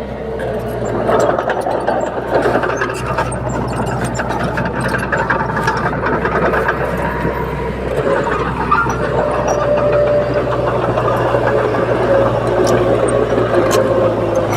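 Shantui bulldozer's diesel engine running steadily under load while pushing soil, with scattered short clicks and clanks; the engine note rises slightly about two-thirds of the way through.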